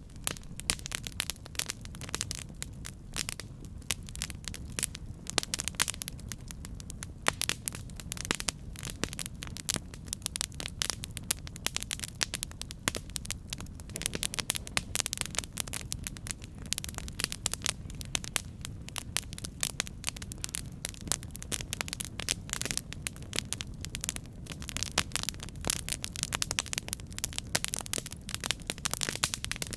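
Campfire crackling steadily, with dense irregular snaps and pops several times a second over a low rumble of the burning fire.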